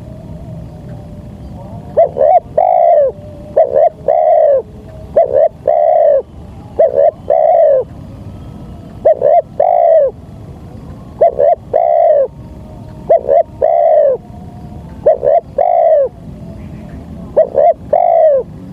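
Spotted dove (tekukur) cooing: a two-note coo phrase, a short note then a longer falling one, repeated about every two seconds from about two seconds in, over a low steady hum.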